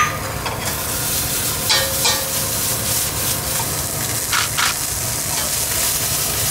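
Sliced red onion and green chilies sizzling in a hot stainless steel pan, with a few short knocks and scrapes against the pan as they are stirred.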